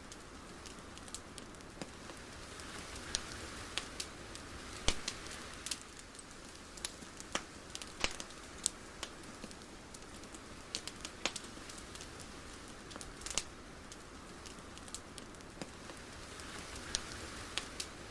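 Soft steady hiss with irregular sharp crackles and clicks scattered throughout, a few of them loud, like a crackling ambience track.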